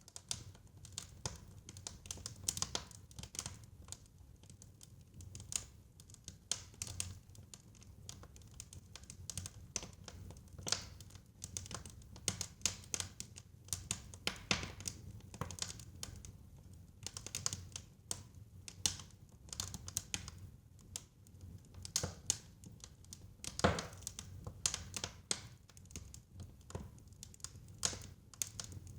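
Fireplace fire crackling: a steady run of irregular snaps and pops over a low rumble, with one louder pop about two-thirds of the way through.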